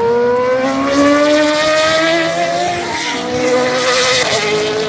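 Racing car engine accelerating hard, its pitch climbing for almost three seconds, dropping at a gear change about three seconds in and again near the end.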